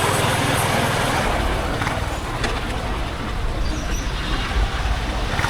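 Honda H'Ness CB350's single-cylinder engine running under way, its exhaust pulsing evenly, over steady wind and road noise.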